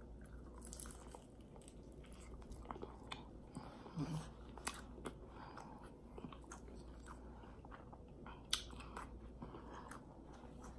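Close-up chewing and biting of a crispy deep-fried egg roll, with scattered small crunches and wet mouth clicks throughout; one sharper crunch comes near the end.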